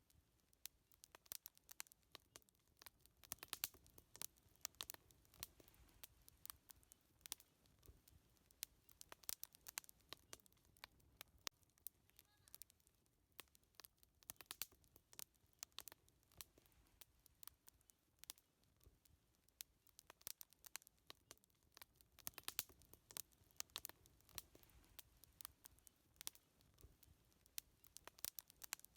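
Wood campfire crackling faintly, with many irregular sharp snaps over a soft low rumble.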